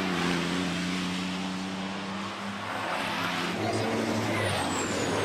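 Diesel engines of racing trucks running steadily, with a high whine falling in pitch near the end.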